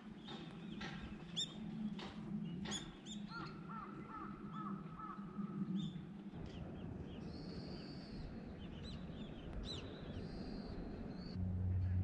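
Birds calling outdoors: many short chirps and repeated call notes, over a steady low background hum that grows louder near the end.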